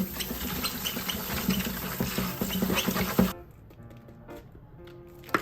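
Water running from a tap into a sink, spattering, then turned off suddenly about three seconds in. Faint background music follows, with a sharp click near the end.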